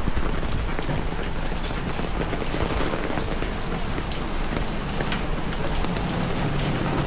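Steady heavy rain, with scattered sharp drop ticks over an even hiss, and a low steady hum coming up near the end.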